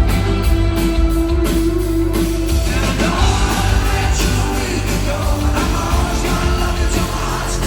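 Live rock band playing a song with singing, heavy bass and guitar.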